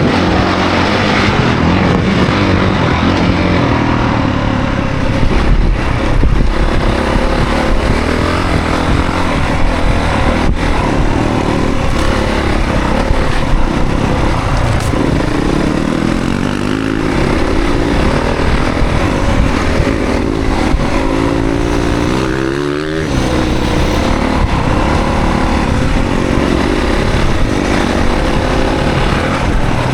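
Honda CRF450 dirt bike's single-cylinder four-stroke engine running under load, its revs rising and falling as it is ridden. A little over twenty seconds in, the revs climb sharply and then drop off suddenly.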